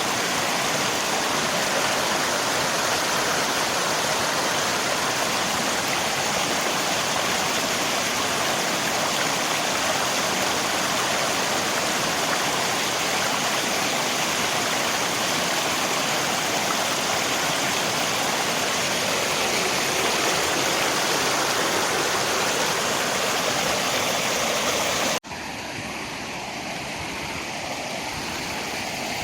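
Steady rush of flowing river water. Near the end it cuts off suddenly into a quieter stretch of water sound that slowly grows louder.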